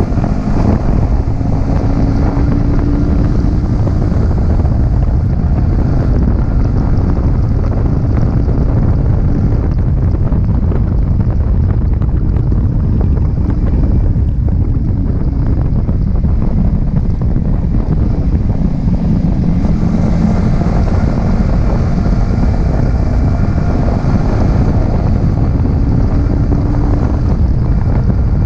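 Yamaha R15M's 155 cc single-cylinder engine running on the move, largely buried under heavy wind buffeting on the action camera's microphone. The engine's pitch shows through faintly near the start and again about two-thirds of the way in.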